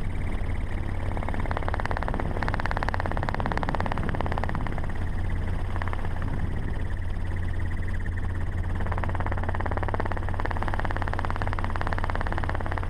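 A vehicle engine running steadily with a constant low hum and a haze of road or wind noise.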